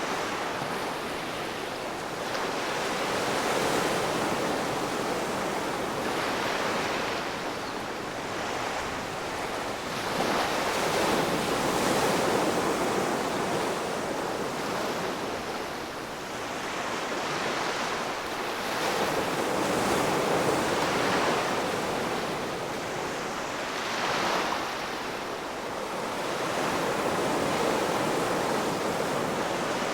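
Ocean waves breaking and washing on the shore in a continuous hiss of surf that swells and eases every few seconds.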